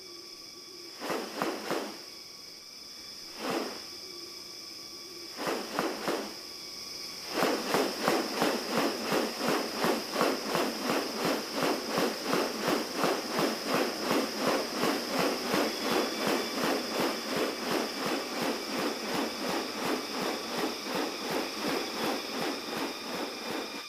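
Rainforest insects keep up a steady high-pitched drone. A few separate rasping strokes come over it, then from about seven seconds in a fast, regular run of rasping pulses, about three a second, that lasts to the end.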